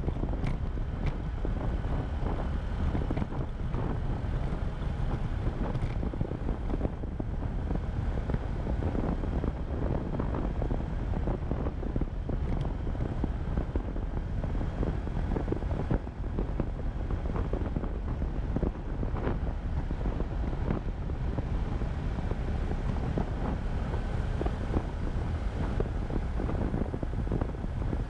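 Wind noise on an action camera's microphone during a motorcycle ride, with the motorcycle's engine running steadily underneath.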